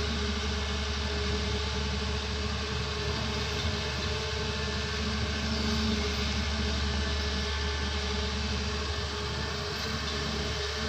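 Doosan excavator's diesel engine running steadily, a constant low hum with no change in revs.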